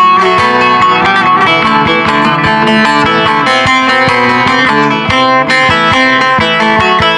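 Bağlama (Turkish long-necked lute) playing a folk melody with quick, steady plucked strokes.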